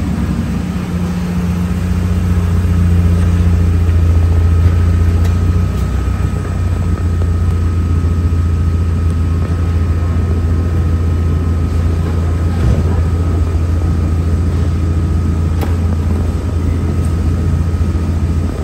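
E46 BMW 3 Series sedan's engine idling: a steady deep hum with a faint, even whine above it.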